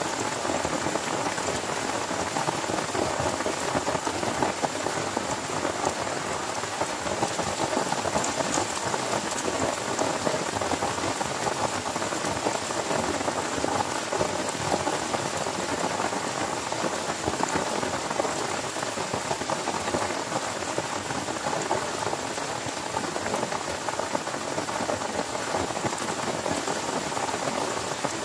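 Heavy rain falling steadily: a dense, even hiss of countless drops that neither builds nor eases.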